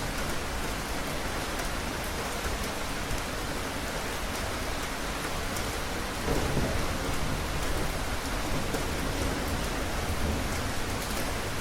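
Steady rain falling, with a low rumble of thunder rising about halfway through and fading back into the rain.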